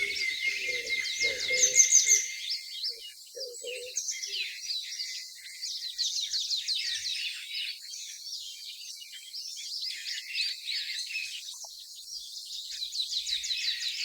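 Small birds chirping: many quick, high calls overlapping.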